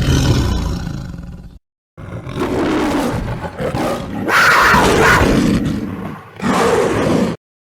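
Big-cat roar sound effects cut back to back: a short low roar that fades over about a second and a half, then a longer roar of about four seconds that gets louder and higher midway, then a brief roar near the end. Each one starts and stops abruptly, with dead silence between.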